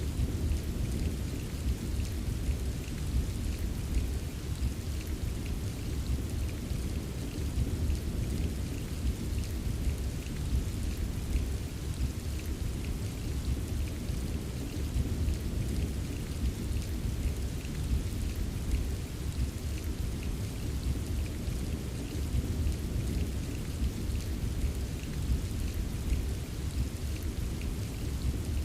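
Steady rain with scattered drops ticking, over a continuous low rumble of distant thunder.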